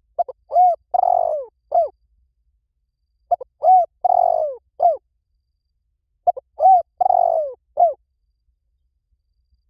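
Spotted dove cooing its phrase three times, about every three seconds: two or three short coos, then a longer rough coo and a falling final note.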